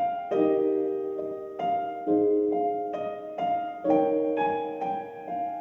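Background music: soft solo piano playing slow chords and a simple melody, a new chord struck about every half second to second.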